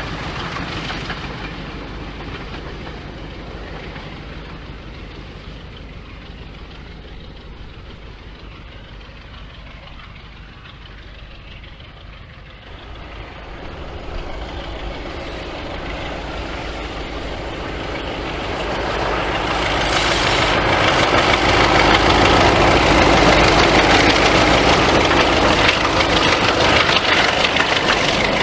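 Diesel locomotive engine running, dying away for the first dozen seconds, then growing steadily louder from about 13 seconds in as a train draws near and passes close.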